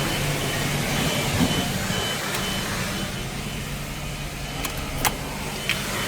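Car engine idling with a steady low hum, a faint high beep repeating at an even pace, and a few sharp clicks near the end.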